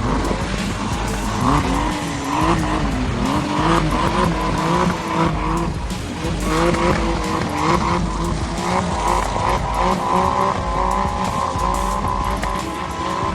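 A vehicle's engine revving with tyres squealing as the wheels spin, the pitch wavering up and down over and over.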